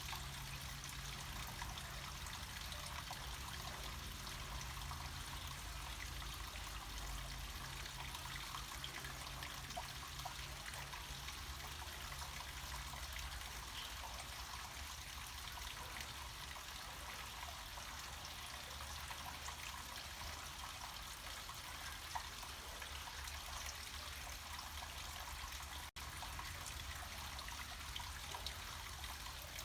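Small mountain stream of water trickling and flowing downhill in a steady, even rush, with a low rumble underneath. The sound drops out for an instant near the end.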